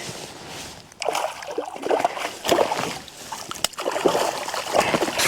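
Water splashing in irregular spurts as a hooked speckled trout thrashes at the surface beside the kayak.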